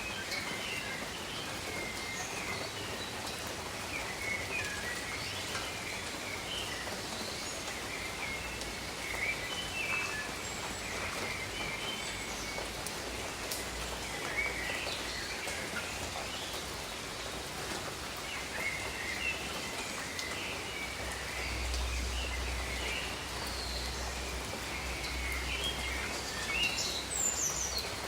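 Steady rain falling over rainforest, with birds chirping and calling in short, scattered notes throughout.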